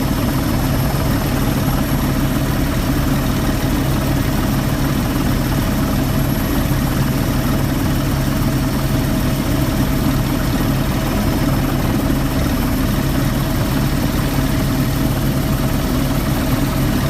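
Helicopter in flight: rotor and engine noise as a steady, unbroken drone, strongest in the low range.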